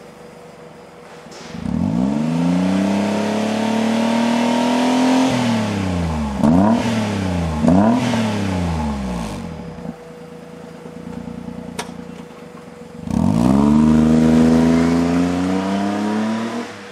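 Daihatsu Mira Gino L700S's naturally aspirated 660 cc three-cylinder engine revved through an aftermarket exhaust. It idles, rises about two seconds in and holds high revs for a few seconds, drops with two quick blips, settles back to idle, then revs and holds again before dropping near the end.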